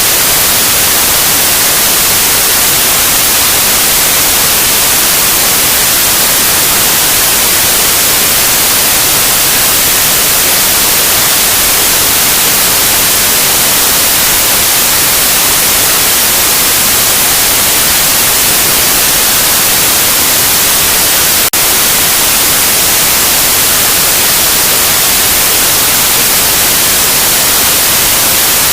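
Loud, steady white noise: an even, unchanging hiss across the whole range, broken once by a split-second dip in level about two-thirds of the way through.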